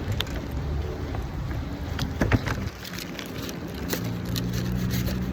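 A vehicle engine running steadily with a low hum, with scattered clicks and knocks and one sharp knock a little over two seconds in.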